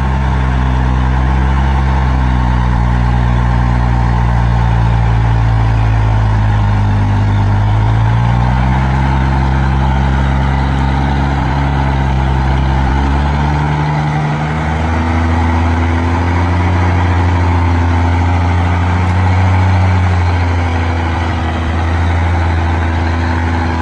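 Logging truck's diesel engine running loudly, its engine speed rising and falling a few times, about eight seconds in and again a few seconds later.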